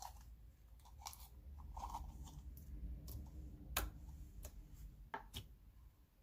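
Slime being handled, with scattered small sticky clicks and pops and a low rumble of hands handling it.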